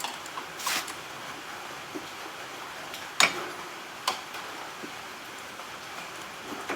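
Scattered sharp clicks and clinks of metal tools and parts being handled, the loudest a single sharp knock about three seconds in and another about a second later, with a brief scraping rustle near the start.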